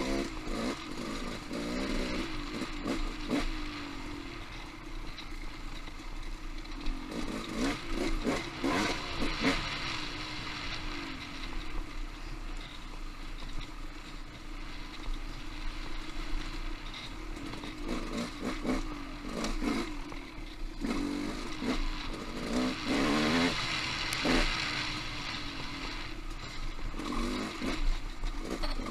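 Off-road motorcycle engine revving up and easing off again and again with the throttle, along with frequent knocks and clatter.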